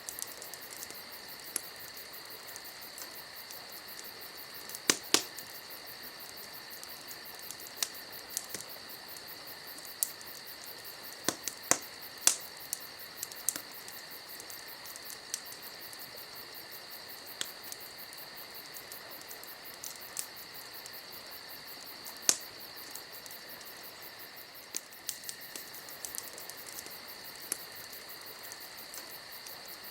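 Campfire crackling, with irregular sharp pops, the loudest about 5, 12 and 22 seconds in, over a steady high trilling of crickets.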